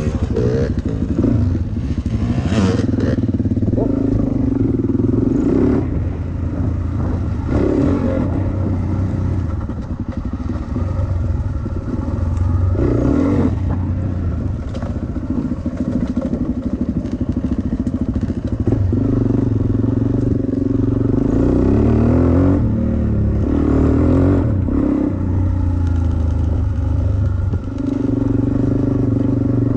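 Dirt bike engine running under load, its revs repeatedly rising and dropping with the throttle, with some rattling and clatter.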